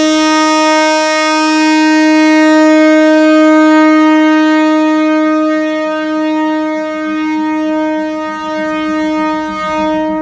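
Train horn giving one long, loud blast on a single steady pitch, held for about ten seconds.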